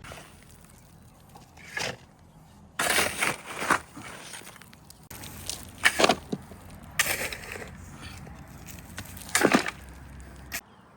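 Manual building work: irregular crunching and scraping bursts, about five in all, some up to a second long, with the loudest around the middle and near the end.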